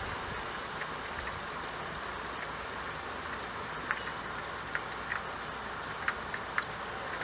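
Steady rain falling as an even hiss, with a handful of louder single drops ticking in the second half.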